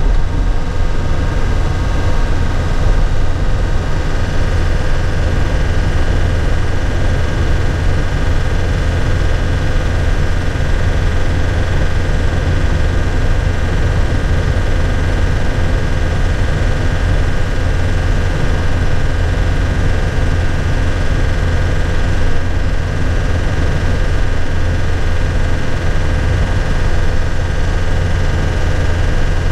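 The engine of a 2001 Nissan Cabstar light truck running steadily, heard from inside the cab as a constant low drone with no gear changes or revving.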